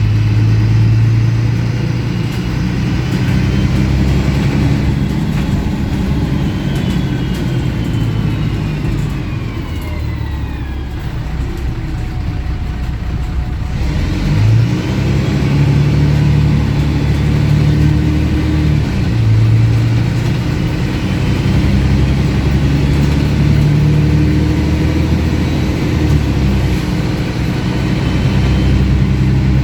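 MAN 18.220 single-deck bus diesel engine running under way with an unusually loud exhaust. Its note eases with a falling whine about a third of the way in, then picks up again around halfway and keeps shifting as the bus drives on.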